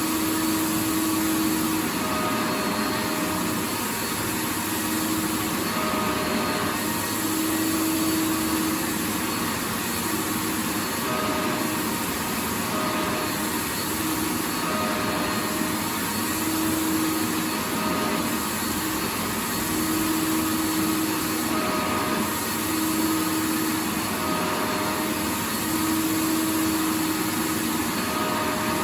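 Vacuum cleaner running continuously: an even, dense rush of air noise with a motor hum that swells and fades every second or two.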